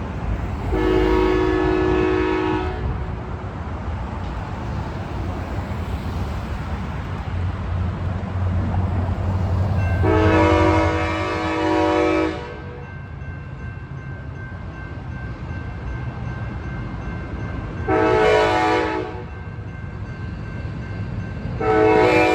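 Locomotive air horn sounding the grade-crossing signal: two long blasts, a short one, then a long one that is still going at the end, over the low rumble of a diesel train.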